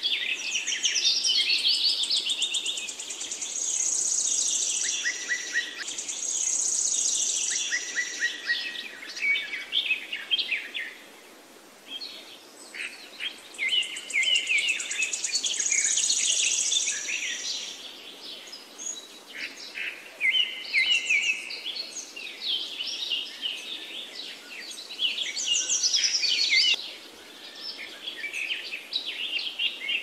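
Songbirds singing and calling, overlapping chirps and fast high trills, with a brief lull about twelve seconds in, over a faint steady background hiss.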